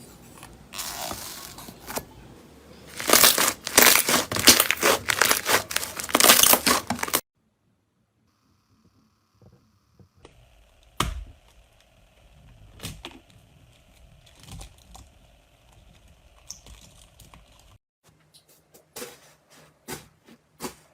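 Slime being handled at close range, crackling and popping. Dense, loud crackles come first, then a short gap, then softer squishing with a few sharp clicks, and near the end a run of fairly regular pops.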